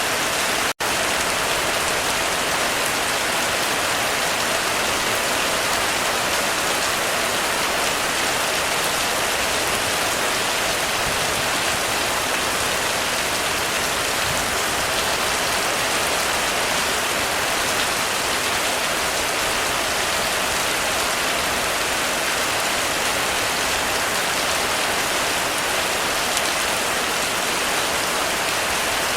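Heavy rain falling steadily on a roof, an even, dense hiss with no thunder. The sound cuts out for an instant just under a second in.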